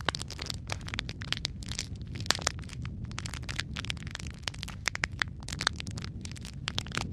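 Wood fire crackling and popping irregularly, many sharp snaps over a steady low rumble of flames.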